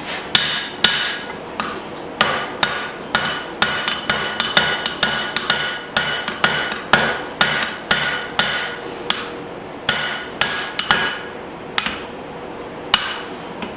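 Blacksmith's hand hammer striking hot steel on an anvil while forging a hammer-hatchet head, a steady run of blows about two a second, each with a short metallic ring. The blows pause briefly twice in the second half.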